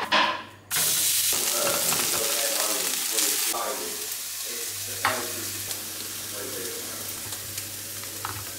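Beef mince frying in a hot pan: a loud sizzle starts suddenly just under a second in, then eases to a steadier, quieter sizzle. Two short sharp clicks come later on.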